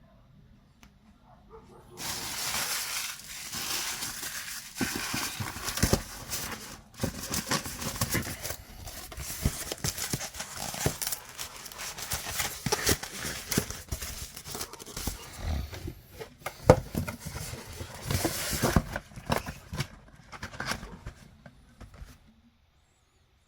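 Statue packaging being handled: plastic and foam crinkling and rustling, with scattered sharp clicks and knocks. It starts about two seconds in and cuts off shortly before the end.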